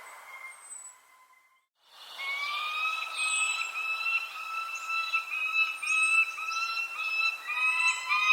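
Birds calling: short high falling chirps over a long, steady whistled note that breaks and restarts about twice a second. The sound drops almost to silence about a second in, then returns.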